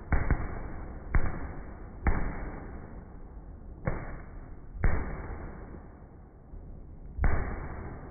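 Fireworks bursting overhead: seven sharp bangs at uneven intervals, two close together right at the start, each trailing off in a rumbling echo.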